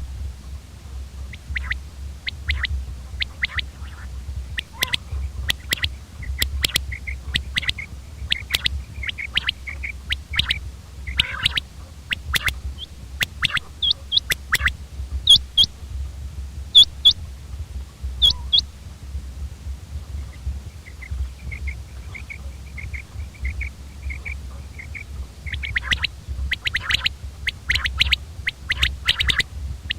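Common quail calling over and over in short, sharp notes, with a run of quick even notes about two-thirds of the way through. A steady low hum runs underneath.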